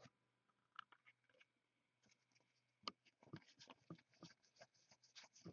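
Near silence broken by faint, scattered clicks and rustles of trading cards being handled and sorted, mostly in the second half.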